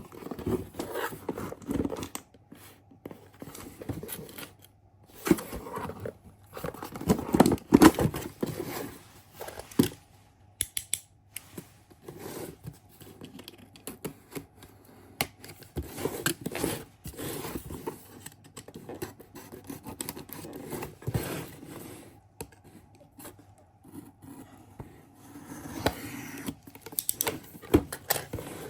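Irregular scraping, rustling and sharp clicks of something being handled, loudest a few seconds in, over a faint steady hum.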